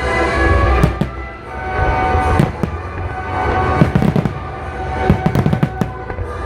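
Fireworks bursting over a music soundtrack. There are single bangs about a second in and around two and a half seconds, then a cluster near four seconds and a quick run of crackling reports between five and six seconds.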